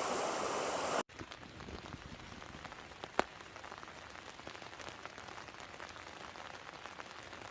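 Raindrops ticking on a tent's flysheet, heard from inside the tent, with one sharper drop about three seconds in. The first second is a steady hiss before an abrupt cut.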